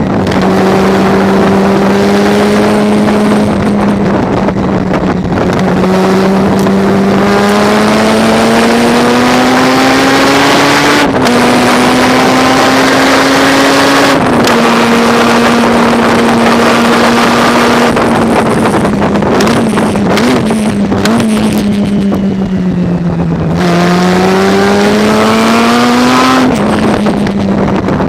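Onboard sound of a race car with a Mazda rotary engine running hard under load. The note climbs slowly and changes gear twice about halfway through. It eases and dips lower later on, then climbs again before another gear change near the end.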